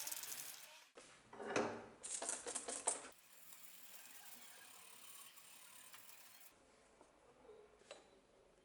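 Small metal parts clinking and clattering as they are handled, in a cluster of sharp clicks and a scrape about one to three seconds in, followed by a faint steady hiss.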